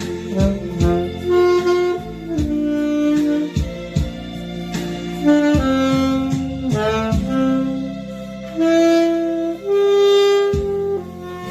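Saxophone playing a slow melody of held notes over a backing track with bass and keyboard, with two long sustained notes in the second half.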